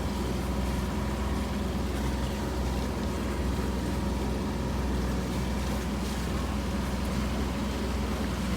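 An engine running steadily, a low, even drone with no change in speed.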